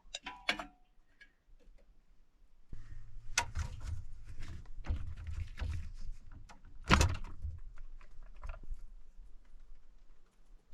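Light clattering and knocking of dishes and cutlery being handled at a small table: a few clicks at first, then a busier run of taps and knocks with two louder knocks, about three and a half and seven seconds in.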